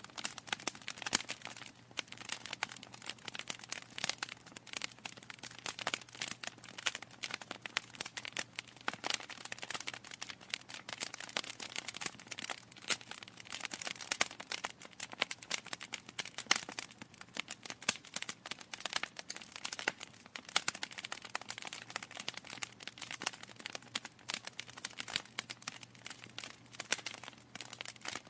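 Wood fire crackling in a fireplace: a dense, irregular run of small pops and snaps from burning logs, with a faint steady low hum beneath.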